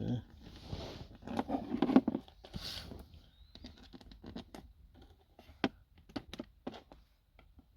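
Hands handling plastic trim and wiring under a car's dashboard. A scattered run of small clicks and taps with rustling and scraping, busiest in the first three seconds.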